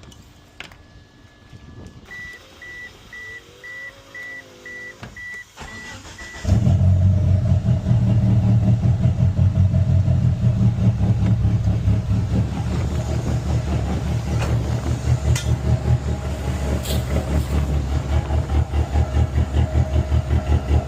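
Door or key chime beeping repeatedly, then the 1995 Mitsubishi Eclipse GSX's turbocharged 4G63 four-cylinder starts about six and a half seconds in and settles into a loud idle with a steady pulse.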